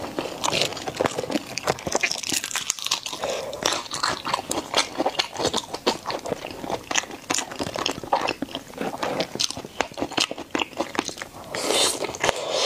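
A person chewing mouthfuls of glazed braised pork cubes: a steady run of quick mouth clicks and smacks. Near the end comes a fresh bite into a new cube.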